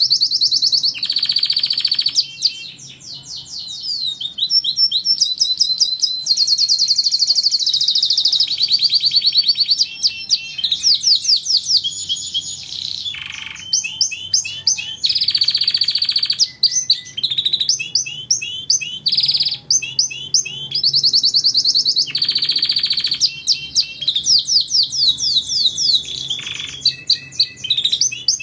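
Domestic canary singing continuously: long, fast trills and rolls of rapidly repeated notes, switching from one tour to the next with only brief breaks.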